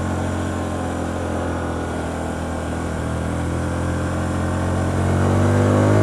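Hyosung GT125R's 125 cc V-twin engine pulling away in gear, its revs climbing slowly and getting louder toward the end.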